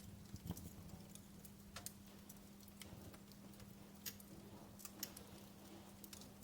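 Wood fire crackling quietly: sparse, irregular sharp pops and snaps, a few louder than the rest, over a faint steady low hum.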